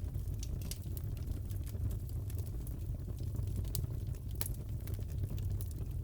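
Wood fire crackling in a fireplace: scattered sharp pops and snaps over a steady low rumble, with one louder pop a little past the middle.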